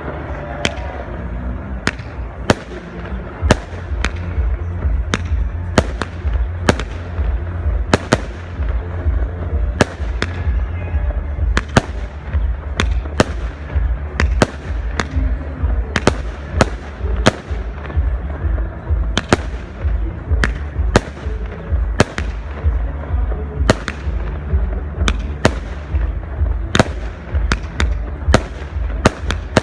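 Fireworks display: aerial shells bursting in sharp bangs, one or two a second at an irregular pace, over a steady low rumble.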